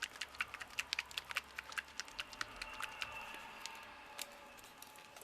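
Rapid light clicks and taps of small objects being handled, several a second at first, thinning out and fading after about three seconds.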